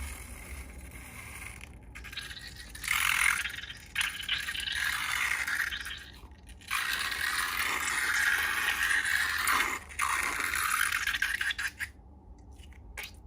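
Dry scraping and rattling in several stretches of one to three seconds, with short breaks between.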